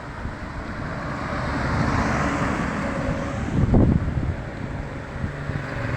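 Strong, gusty wind buffeting the microphone, with a vehicle going past that swells up and fades away over the first few seconds.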